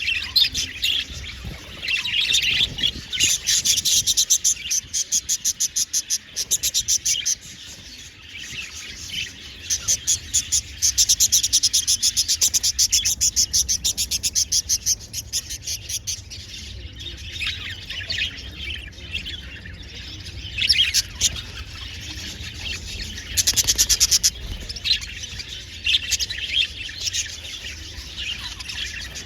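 A flock of budgerigars chirping and chattering, broken by fast trains of rapid clicking chirps in the middle and once more briefly near the end, over a steady low hum.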